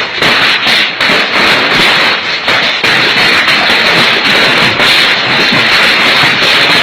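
Hail pelting down in a loud, dense, continuous clatter of many hard impacts.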